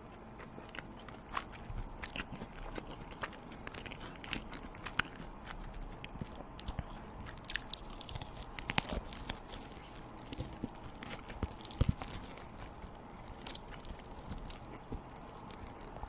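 A person biting and chewing food close to the microphone, with many small sharp clicks of the food breaking throughout.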